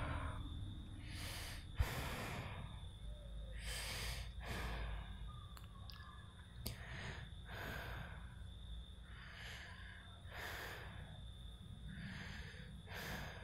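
A person breathing heavily: a run of audible breaths about one to two seconds apart, over a low steady hum.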